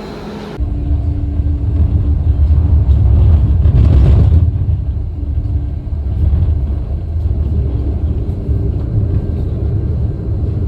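Low, steady rumble of a Wuppertal Schwebebahn suspension railway car in motion, with a faint steady hum above it. It starts abruptly about half a second in and is loudest a few seconds in.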